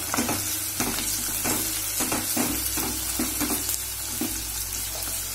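Sliced onions and green chillies sizzling in hot oil in a kadhai, stirred with a spatula that scrapes the pan in repeated quick strokes.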